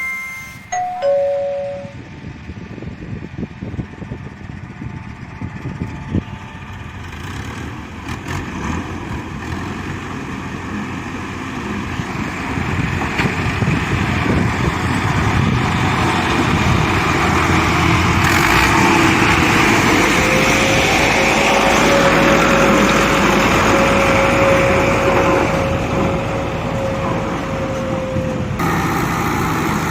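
A two-note chime about a second in, then a Fiat 640 tractor's diesel engine running steadily and growing louder. A steady whine rides over it from about two-thirds of the way through until near the end.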